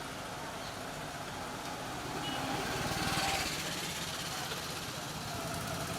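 Street traffic noise, with a vehicle passing about three seconds in.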